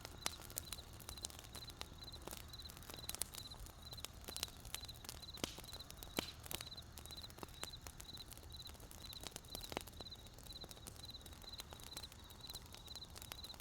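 Wood campfire crackling with irregular sharp pops and snaps, over a cricket chirping steadily in short high pulses about twice a second.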